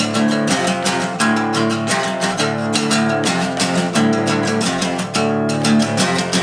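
Acoustic guitar strummed in a steady rhythm, an instrumental passage between sung verses, with strokes about twice a second.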